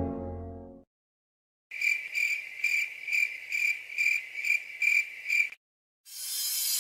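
Cricket chirping: a high, even trill pulsing about two and a half times a second for nearly four seconds. A low horn note fades out in the first second, and a rising whoosh swells just before the end.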